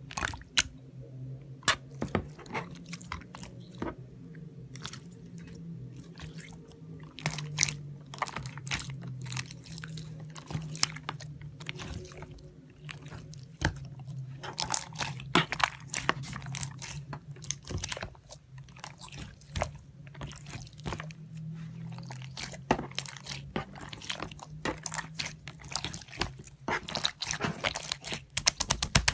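Irregular crunching and crackling clicks in quick succession, over a low steady hum.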